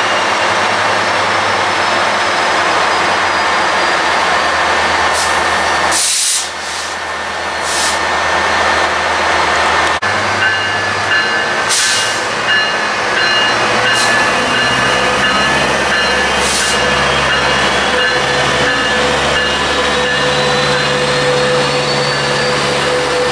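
Metrolink diesel locomotive and bilevel passenger cars pulling out of the station. The engine drones steadily, with a short burst of air hiss about six seconds in. Then the engine note climbs in steps as the train gathers speed and the cars roll past, with thin high whines from the running gear.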